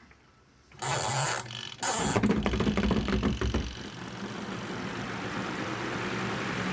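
Portable washing machine's spin dryer starting its spin cycle: a burst of clicks and rustling, then about two seconds in the motor starts with a low rumble and settles into a steady hum and whir.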